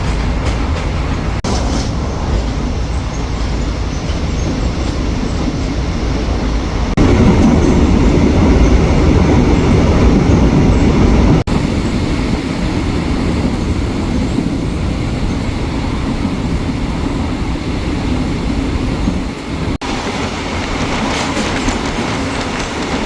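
Passenger train hauled by an Alsthom diesel-electric locomotive running on the rails, a steady loud rumble and rattle of wheels and cars, growing louder for a few seconds in the middle.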